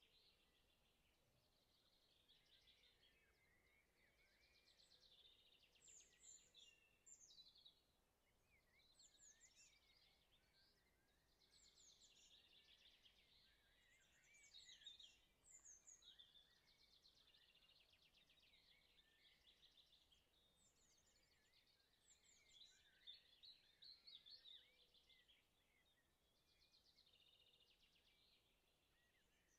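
Faint birdsong: phrases of chirps and rapid trills, one after another, over a soft background hiss.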